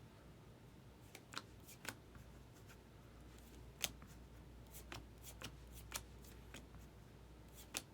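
Baseball cards being handled and flipped through, giving faint, irregular flicks and ticks.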